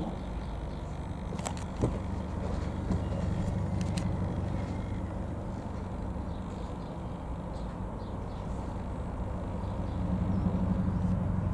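Eurocopter EC120B Colibri helicopter flying by, a steady low rotor and turbine drone with a fast pulsing beat that grows louder about ten seconds in. A single sharp knock about two seconds in.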